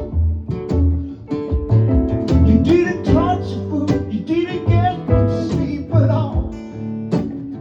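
Live music: acoustic guitar playing with deep bass notes, in an instrumental passage of a blues-folk song.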